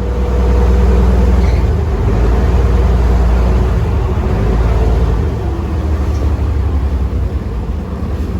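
Cross-river ferry boat's engine running with a deep, steady drone, getting louder about half a second in and easing off a little after about five seconds.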